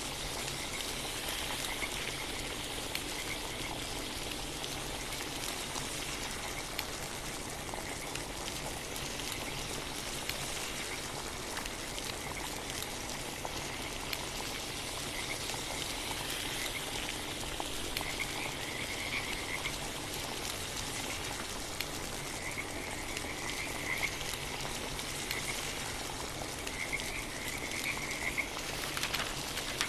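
A chorus of frogs calling in short, repeated trilling bouts over a steady hiss of rain.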